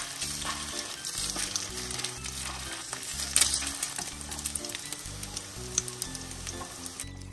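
Egg-coated slices of pink sausage sizzling in hot oil in a nonstick frying pan: a steady hiss with many small pops and crackles of spattering oil, a louder burst of spatter about three seconds in.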